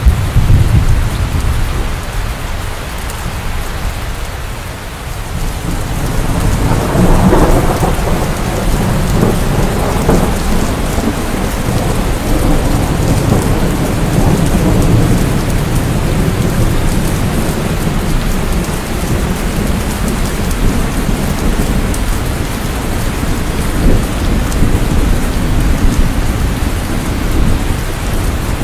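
Steady heavy rain with rolling thunder. The low rumble swells from about six seconds in and slowly fades again.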